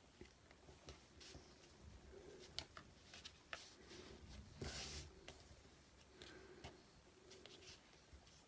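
Near silence with faint rustles and small taps from hands tying baker's twine into a bow on a paper card; one brief, slightly louder rustle about halfway through.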